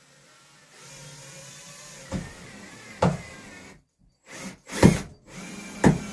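Power drill running for about three seconds, driving a tapping screw into the wooden subframe, then stopping abruptly. Several sharp knocks of wood and tools being handled come between about two and six seconds in.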